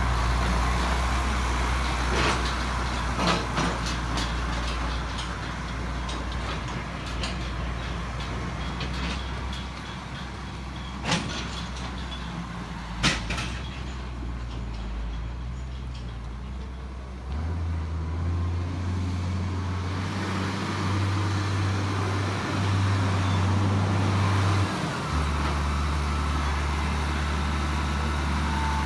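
Heavy diesel engine running steadily, its pitch stepping up about two-thirds of the way through and settling back down near the end, with a few sharp metallic clanks partway through.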